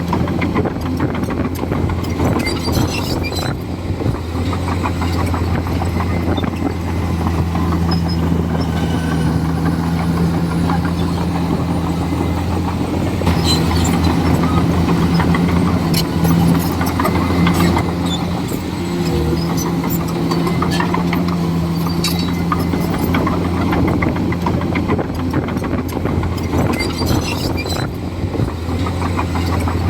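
Komatsu D41E crawler bulldozer's diesel engine running steadily under load, with scattered metallic clanks from the tracks and blade.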